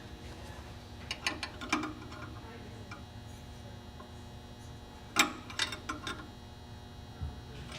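An 11/16 wrench clicking and tapping against a fitting as a 90-degree elbow is tightened onto an AirDog fuel pump. There are a handful of scattered light metallic clicks, the sharpest about five seconds in.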